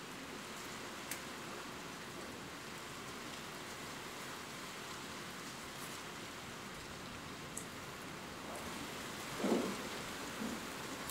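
Steady rain with a few separate drop ticks. A brief low rumble of thunder comes near the end and is the loudest moment.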